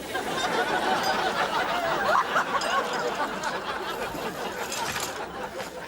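Studio audience laughing, a dense, steady spell of laughter from many people.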